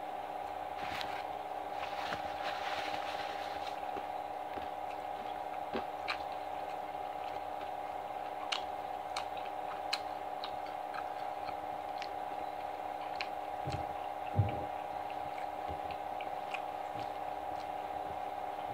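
Eating sounds from fried chicken being eaten: chewing, with scattered small mouth clicks and smacks. A steady hum runs underneath, and two low thumps come about 14 seconds in.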